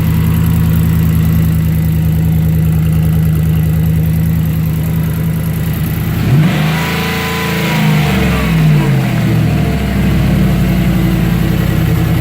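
2015 GM 5.3-litre L83 direct-injection V8 idling steadily. About six seconds in it is revved once, its pitch rising and then falling back to idle over a few seconds.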